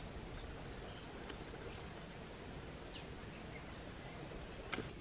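Outdoor ambience: a steady background hiss with a bird calling repeatedly, a short high chirp about every second and a half. A single sharp click near the end.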